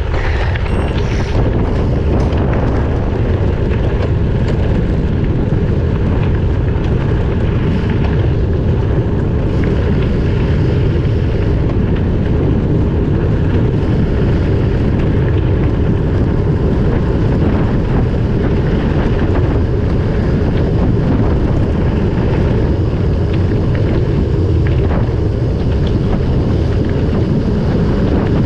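Wind rushing steadily over an action camera's microphone while riding a gravel bike at speed downhill, a loud, even rumble.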